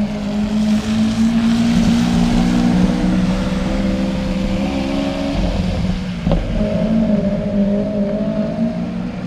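Lamborghini supercar engine idling steadily at a fast idle, with one short break about six seconds in before it settles back to the same note.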